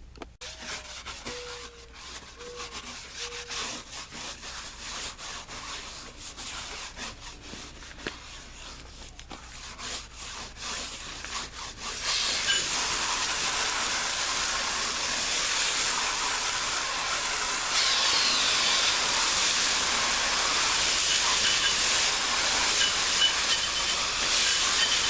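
Rubbing and scraping with scattered clicks, then about twelve seconds in, water from a garden hose starts up with a loud, steady hiss.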